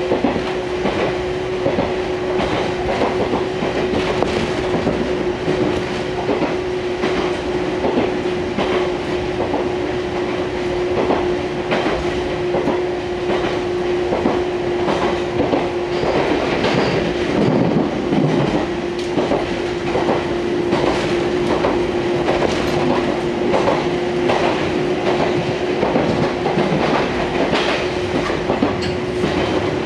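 Fukui Railway light-rail car running at speed, heard from inside: wheels clicking over rail joints over a steady hum. A rougher rumble comes in for a couple of seconds around the middle.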